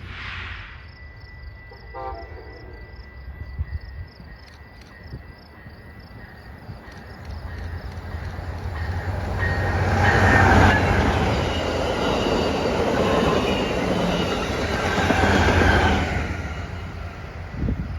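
A train passing, its rumble and rail noise building over several seconds, loudest for about six seconds, then easing off near the end.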